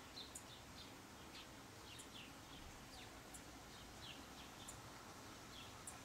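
Faint chirping of small birds: short, high, downward-sliding chirps coming a few times a second, with a sharper, very high tick about every second and a half, over a soft steady hiss.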